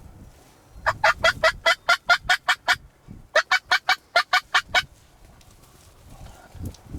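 Turkey calling in two quick runs of sharp notes, about five a second. The first run lasts about two seconds, then comes a short pause and a second run of about a second and a half.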